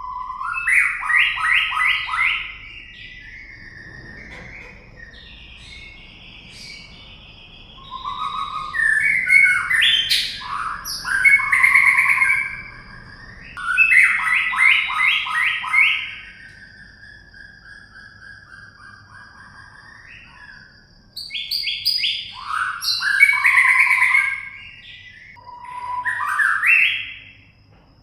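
White-rumped shama singing in several loud bursts of fast repeated notes and clear whistles, with quiet pauses of a few seconds between the phrases.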